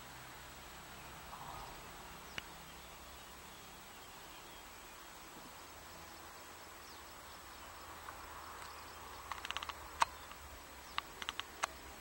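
Short, sharp bird call notes over a faint steady outdoor background: one single tick about two seconds in, then a quick run of ticking notes near the end.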